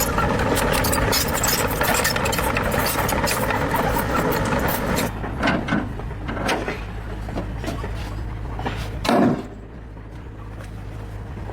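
Tractor engine running with a loud, busy clatter, dropping to a quieter low running hum about five seconds in. A few short thuds follow, the loudest about nine seconds in.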